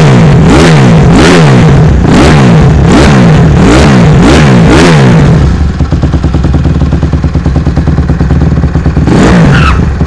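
2007 Honda CRF150R's four-stroke single-cylinder engine, loud, being revved in quick throttle blips about one and a half times a second while warming up after a cold start. It drops to a steady idle about halfway through and is revved again near the end.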